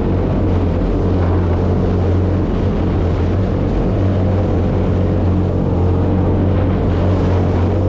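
Aquanami JetAngler jet kayak's engine running at a steady cruising speed, a constant low hum over water and wind noise. The engine is being run in at low to moderate speed.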